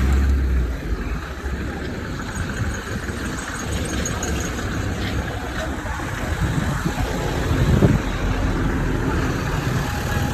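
Traffic noise: a motor vehicle engine running, with a steady rumble.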